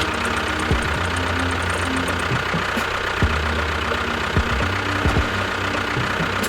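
An engine running steadily at a low idle, with a few short low thuds over it.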